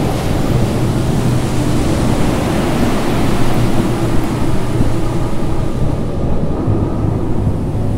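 Loud rushing, churning water, with a low steady drone underneath.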